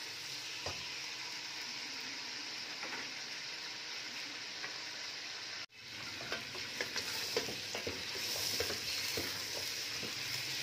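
Chicken pieces frying in hot oil in a steel pressure cooker, sizzling steadily while the chicken's released water cooks off, with a wooden spatula scraping and knocking against the pan as it is stirred. The sound breaks off for an instant about halfway, and the sizzling is a little louder after that.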